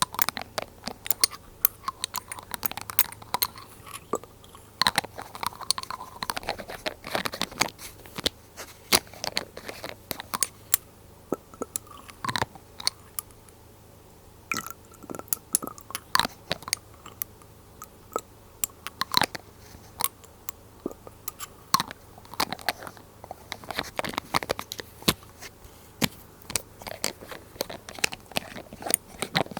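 Glass dropper bottles handled close to the microphone: a dense, irregular run of small clicks, taps and crackles, with a few short pitched tones now and then.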